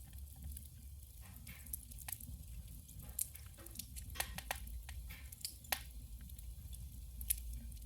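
Firewood burning in a wood stove, crackling with irregular sharp pops over a steady low rumble of the fire.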